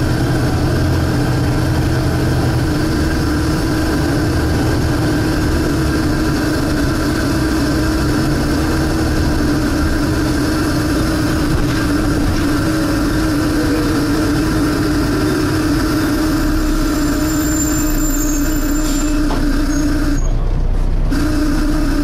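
Volvo B7TL double-decker bus heard from inside while moving: a loud, steady suction noise runs over the diesel engine, whose lower note shifts in steps. Near the end the suction tone cuts out for about a second, then comes back.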